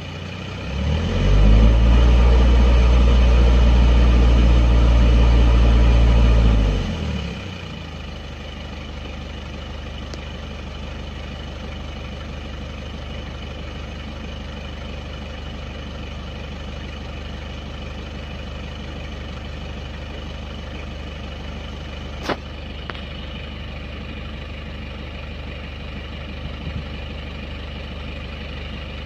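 Kia car engine idling unevenly: about a second in its speed climbs and holds for several seconds as a louder, deeper drone, then sinks back around seven seconds in to a quieter, steady idle. This is a hunting idle that sets the tachometer needle swinging. A single sharp click comes near 22 seconds.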